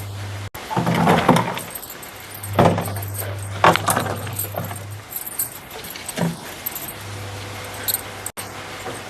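Light clinks and knocks of bottles and containers being handled and set down, over a steady low hum that starts and stops at the edits.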